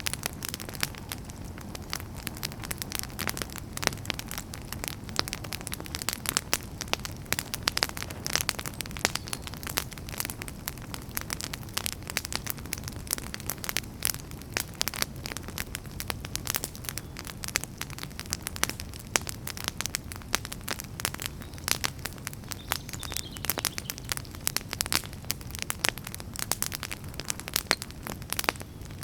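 Wood fire burning in a fireplace: dense, irregular crackles and pops over a steady low rumble of flame.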